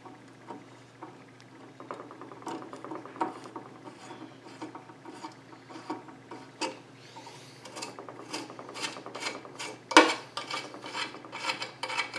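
Hand tap being backed out of a freshly threaded hole in a square metal bar: metal scraping and irregular clicks, getting busier in the second half, with one sharp knock about ten seconds in.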